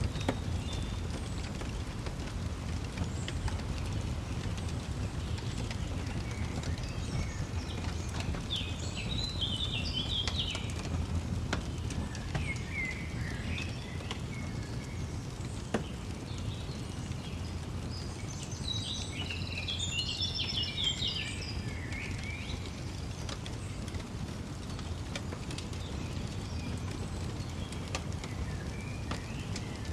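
Songbirds singing two bursts of quick, high twittering phrases over a crackling wood fire, which gives a steady low rumble with a few sharp pops, the clearest about halfway through.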